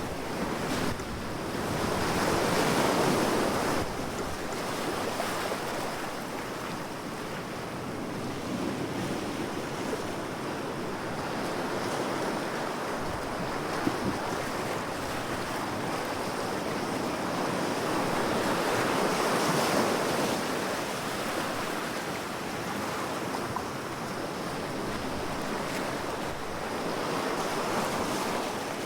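Ocean waves breaking and washing on the shore in a steady wash that swells and ebbs, louder twice: a few seconds in and again about two-thirds of the way through.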